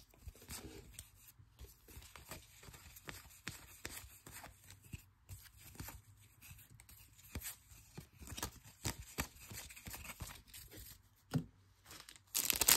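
Baseball trading cards being handled and flipped through by hand: faint, scattered light clicks and slides of card stock. Just before the end a louder crinkling of a pack wrapper starts.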